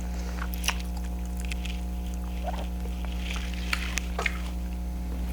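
Close-up eating sounds of someone eating seafood: scattered small wet clicks and smacks from chewing and handling the food. A steady low electrical hum runs underneath.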